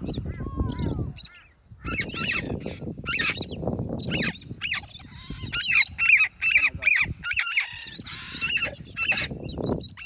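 A flock of parrots, cockatoos among them, squawking and screeching in a string of short, harsh, repeated calls.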